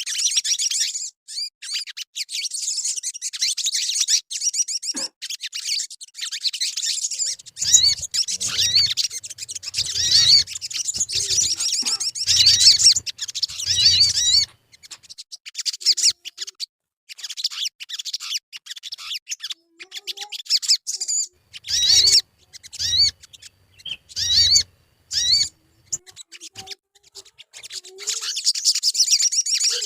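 Sogon bird singing: rapid, dense high chirping and twittering, unbroken for about the first half, then in short separate bursts.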